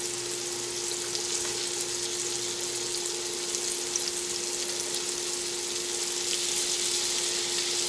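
Flour-coated potato cakes frying in hot oil in a cast-iron skillet: a steady sizzle, with a steady low hum underneath.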